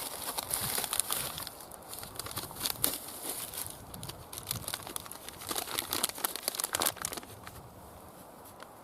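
Crinkling and rustling handling noise, dense crackly rustles that die away about seven seconds in.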